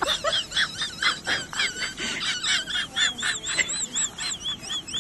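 Rapid, high-pitched animal peeping calls, several a second, many with a wavering pitch.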